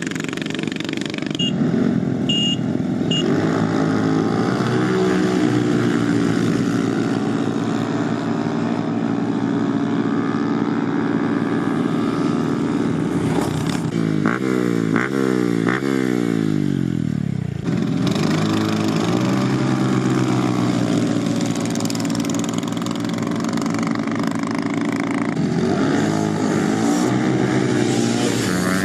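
Small motorbike engine running, with its revs rising several times in quick succession about halfway through, then dropping away sharply.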